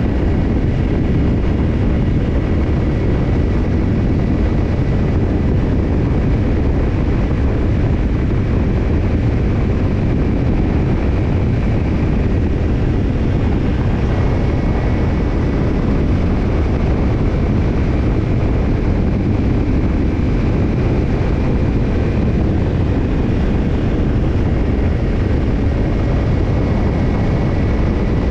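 Kawasaki Ninja 250's parallel-twin engine running through a BEET JAPAN NASSERT Evolution Type II titanium slip-on muffler, holding a steady engine speed with no revving.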